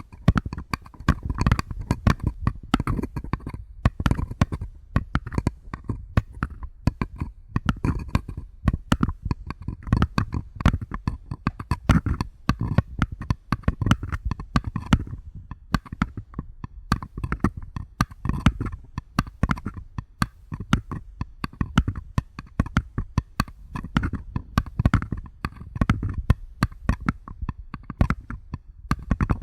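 Fingertips and nails tapping quickly and softly on paper cups, a dense run of light hollow taps and clicks with short pauses between flurries.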